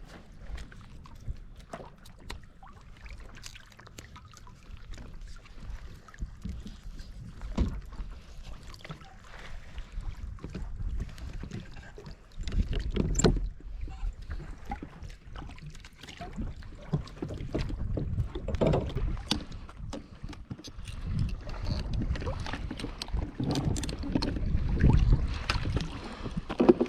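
Water sloshing and slapping against the hull of a Hobie Revolution 13 pedal kayak, with wind buffeting the microphone in swells and scattered sharp clicks and knocks.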